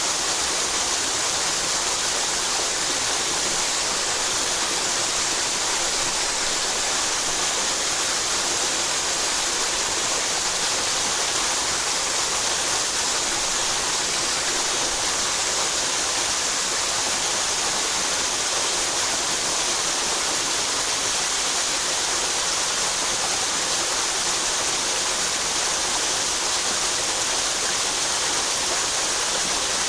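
Mountain headwater stream rushing over rocks: a steady, even hiss of running water.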